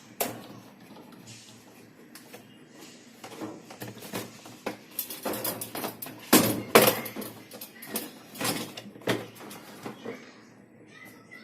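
Irregular knocks, clacks and scrapes of hard parts being handled and fitted during work on an LG washing machine's suspension rods, loudest in a cluster of knocks about six to seven seconds in.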